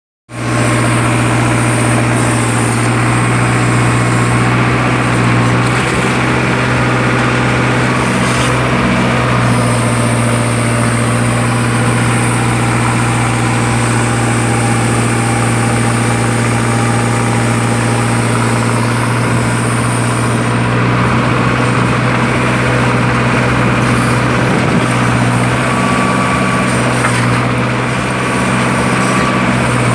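Tractor's diesel engine running at a steady speed, a constant low hum with no revving.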